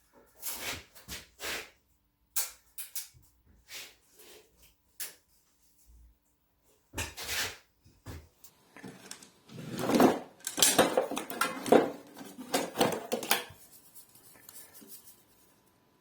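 Irregular clatter, knocks and scraping of objects being handled, sparse at first and busier in the second half.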